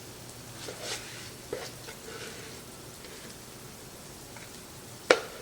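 Cornbread batter sizzling in a hot oiled skillet, with a few soft scraping strokes. Two sharp metallic knocks come near the end.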